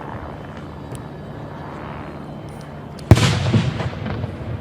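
Aerial fireworks: a low rumble for about three seconds, then a single loud shell burst that rolls on as a rumbling echo with crackle.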